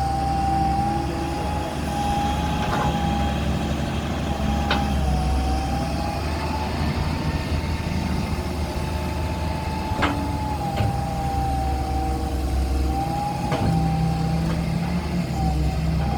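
Excavator's diesel engine running steadily under a high whine that wavers slightly in pitch, with a few sharp knocks.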